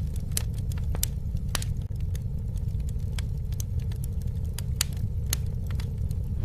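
Wood fire crackling: irregular sharp snaps and pops over a steady low rumble of burning.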